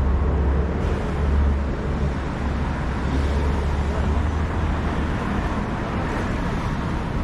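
Busy city street ambience at night: the low rumble of a nearby vehicle's engine, fading about five seconds in, over a steady background of traffic and crowd noise.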